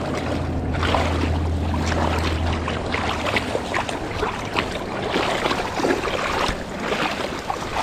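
Footsteps wading through shallow water and tall grass: irregular sloshing splashes and rustling. A low steady hum runs under it for the first three seconds or so.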